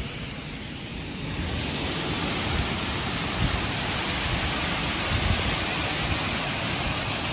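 Torrential thunderstorm rain pouring down as a steady, dense hiss that grows louder a little over a second in, with occasional low rumbles.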